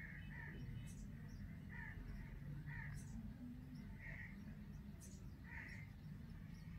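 Birds calling: short harsh calls repeating about once a second, with a few thin high-pitched chirps among them, over a low steady background rumble.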